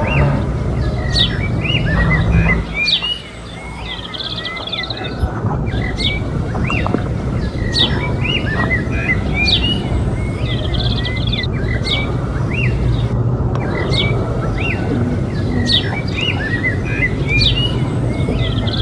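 Birds chirping, short calls repeating every second or so, over a steady low rumble.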